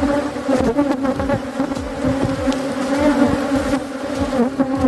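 A swarm of honeybees buzzing loudly around the hive: a steady hum, with single bees passing close by, their pitch rising and falling.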